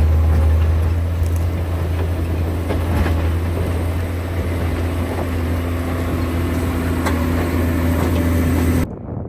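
John Deere 670 GP motor grader's diesel engine running steadily with a strong low drone, scattered knocks and rattles from the machine over it. Near the end the sound cuts off abruptly to a quieter, duller engine sound.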